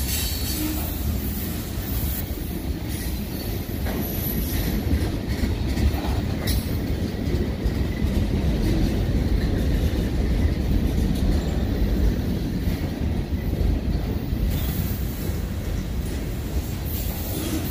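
Freight cars of a long mixed train rolling past close by: a steady rumble of steel wheels on rail with a few sharp clanks, and a faint high wheel squeal a few seconds in.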